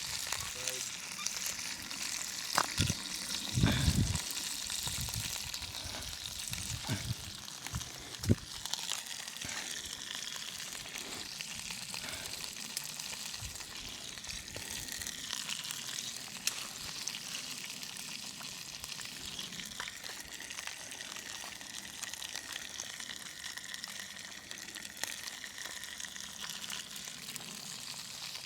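Fish frying, a steady sizzle, with a few low knocks around three to four seconds in and a sharp one at about eight seconds.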